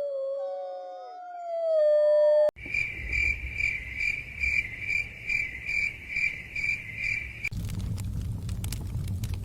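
A drawn-out canine howl that falls, rises and falls again. About two and a half seconds in it cuts off abruptly to crickets chirping in an even rhythm, about two to three chirps a second. Near the end that switches in turn to a fire crackling with scattered pops over a low rumble.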